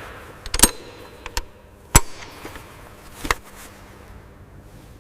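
A few sharp knocks, single strikes spaced unevenly, the loudest about two seconds in.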